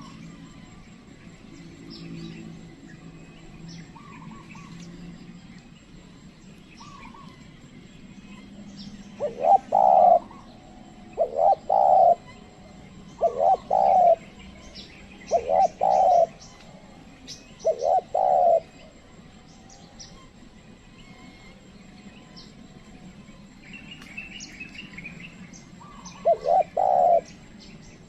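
Spotted dove (tekukur) cooing, a trained decoy bird calling to lure wild doves: a run of five loud coo phrases about two seconds apart in the middle, then more near the end. Small birds chirp faintly in the background.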